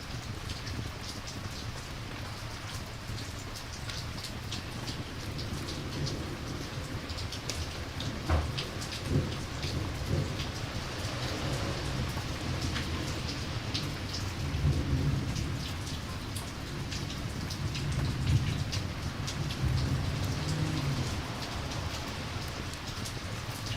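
Steady rain falling, with many small drops ticking, and a low rumble of distant thunder that swells and fades in the middle and later part.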